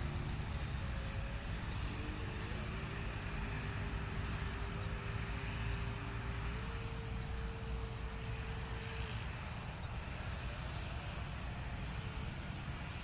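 Steady low engine rumble. A thin whine joins it, holds one pitch, steps higher about six and a half seconds in, and stops about nine seconds in.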